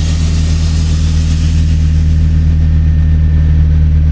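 Mazda NB Miata's four-cylinder engine idling steadily through its ISR aftermarket exhaust, the hole in the exhaust freshly welded shut. A hiss sits over it at first and fades out about two seconds in.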